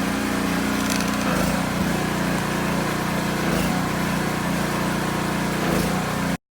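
Gas pressure washer's small engine running steadily, with the hiss of the water spray over it. The sound cuts off suddenly near the end.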